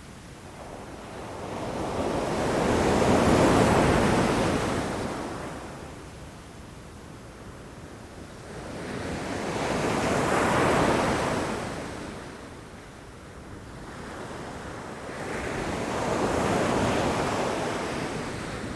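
Ocean waves breaking against rocks: three slow surges of surf, each swelling and fading over several seconds, about six to seven seconds apart, the first the loudest.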